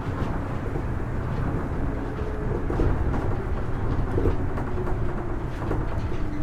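Kitakyushu Monorail Series 1000 car running at speed, heard from inside: a steady low rumble from its rubber tyres on the concrete guideway, with faint, wavering tones from its Hitachi IGBT-VVVF traction drive.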